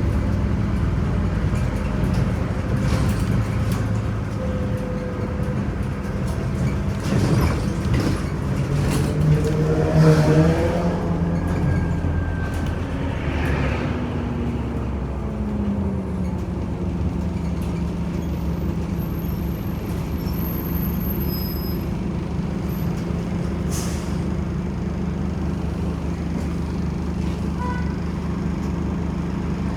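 Scania Omnicity city bus underway, its engine running steadily with scattered knocks and rattles. About ten seconds in the engine note climbs to a peak, then glides back down over the next few seconds.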